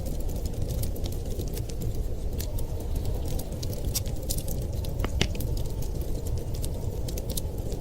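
Wood fire crackling with a rapid scatter of small pops and one louder crack about five seconds in, over a steady low rumble of storm wind.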